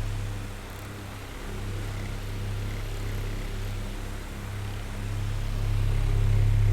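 Oscillating electric fan running: a steady low motor hum with the rush of air from the blades, growing quieter early on and louder again in the last couple of seconds as the fan head swings away and back.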